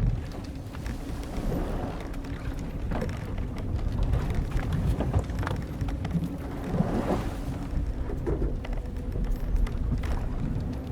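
Soundscape of an old wooden sailing ship at sea: a steady low rumble of wind and waves, with small crackling ticks and a few short creaks from the hull timbers and ropes, clearest about two-thirds of the way in.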